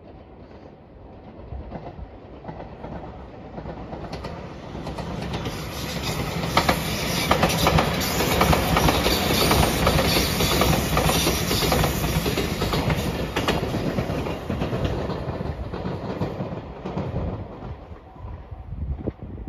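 JR Shikoku 8000 series electric limited express train passing close by. Its rumble builds, peaks about halfway through with wheels clicking over rail joints, then fades away as it leaves.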